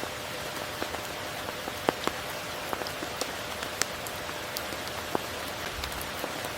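Steady rainfall with individual raindrops striking close by as scattered clicks, two louder drops about two seconds in.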